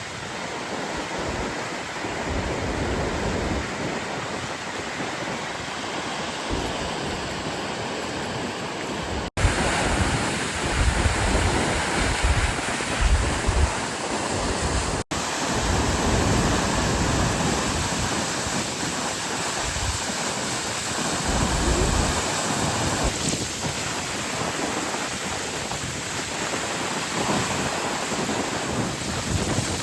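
Steady rushing of the Gullfoss waterfall, a large two-tiered fall, mixed with wind buffeting the microphone. The sound cuts out for a moment twice, about a third and half of the way through, as the footage changes.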